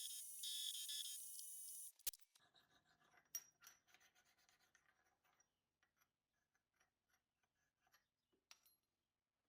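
Faint high-pitched whine of a small machine's motor, several steady tones together, that cuts off abruptly about two seconds in. A sharp click follows, then faint scratching and scattered ticks of small metal parts being handled.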